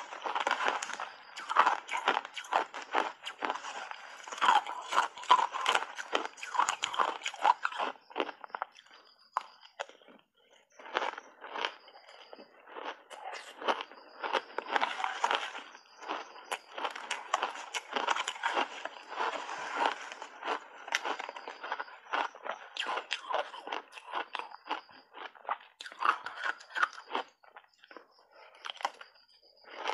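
Shaved ice coated in matcha powder being bitten and chewed in big mouthfuls, a dense rapid crunching close to the microphone, with brief lulls about ten seconds in and near the end.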